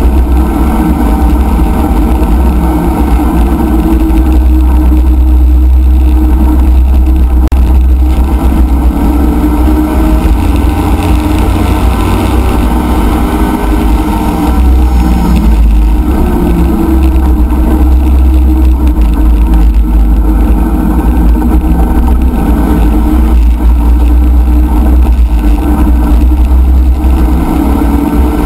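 A C5 Corvette race car's V8 engine running hard, heard from inside the cockpit. Its pitch rises and falls as the car accelerates down the straight and slows for the corners.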